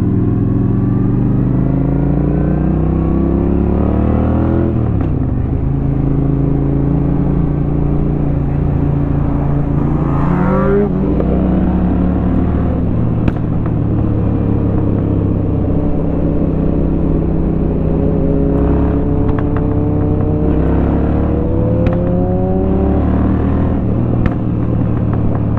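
A 2004 Honda Shadow 750's V-twin engine, through an aftermarket Rinehart exhaust, pulling away and accelerating through the gears. The pitch climbs, drops at an upshift about five seconds in, climbs again, drops at another shift about eleven seconds in, then settles into a steadier cruise with small rises and falls.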